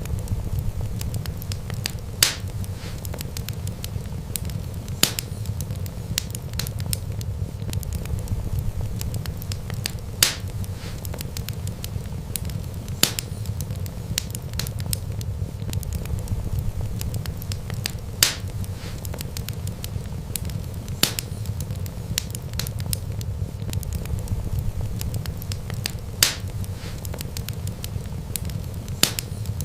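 Wood fire burning, with a steady low rumble of flames and sharp crackling pops every few seconds, about eight in all.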